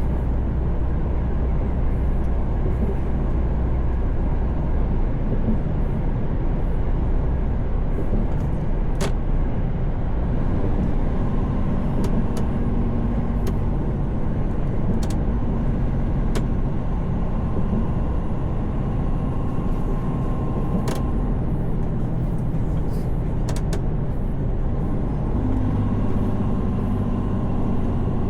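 Mercedes-Benz Actros truck heard from inside the cab at highway speed: a steady drone of diesel engine and road noise whose engine note shifts twice. A few faint clicks sound over it.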